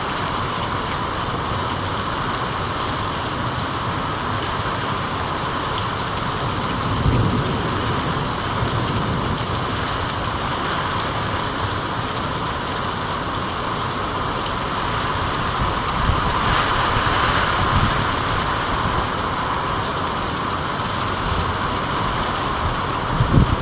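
Steady rain falling, an even hiss with a few brief low thumps in the background.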